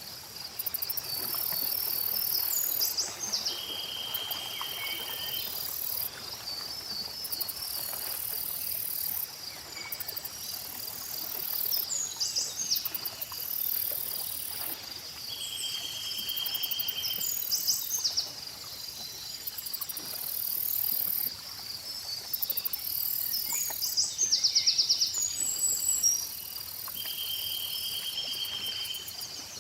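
Insects trill steadily, with high buzzing that switches on and off every second or two and repeated held buzzy notes. Scattered short bird chirps sound over the insects.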